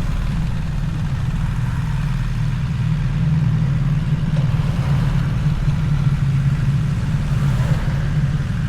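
BMW R1300 GS boxer twin engine running steadily, with no marked revving.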